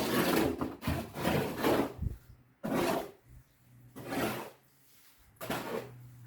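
Repeated rough scraping strokes, about one a second, growing weaker and more spaced toward the end, with a faint steady low hum behind them.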